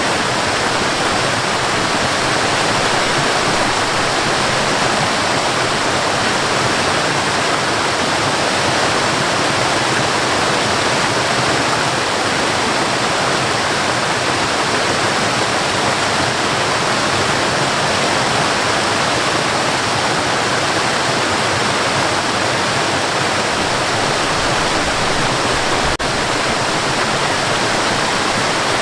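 A waterfall rushing steadily: an even, continuous roar of falling water with no breaks or changes.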